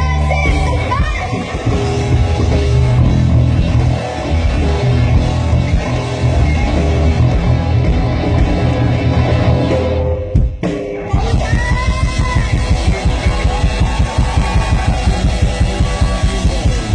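Live rock band playing: drum kit, electric guitar and bass at full volume. About ten seconds in the music drops out for a moment, then comes back on a fast, even beat of about five hits a second.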